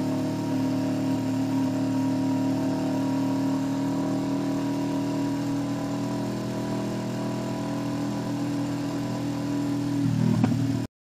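Kawasaki Ninja 650's parallel-twin engine through an SC Project exhaust, running at steady revs while riding. About ten seconds in, the revs waver and drop briefly, then the sound cuts off suddenly.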